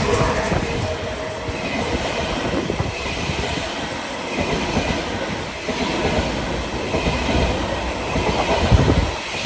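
Train passing close by, its wheels clattering over the rails in a steady, dense run of knocks.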